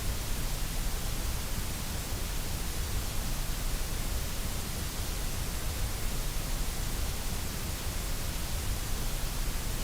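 Steady, unchanging white noise: an even hiss spread across the whole range of pitch, with no breaks or rhythm.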